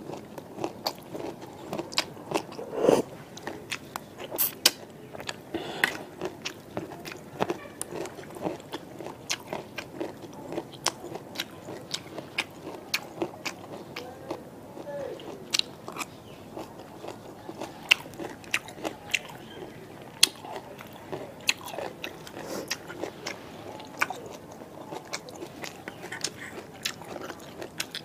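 Close-miked chewing and lip-smacking of a person eating spicy noodle soup with cauliflower and fish balls, with many short, irregular clicks and smacks.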